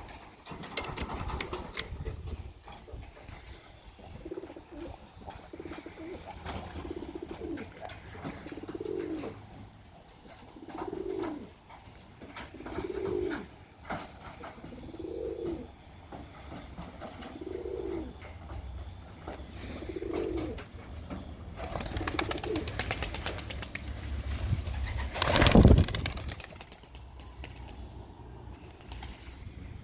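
Racing pigeon cooing, the same low call repeated about every two seconds for much of the stretch. Near the end comes a short, loud burst of noise.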